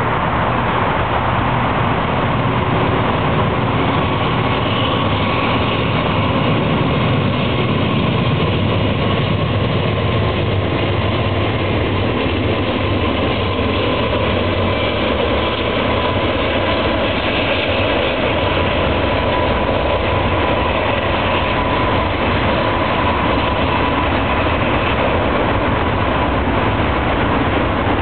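BNSF diesel locomotives running as they pass, pulling a double-stack container train, with steady wheel and rail noise from the cars rolling by.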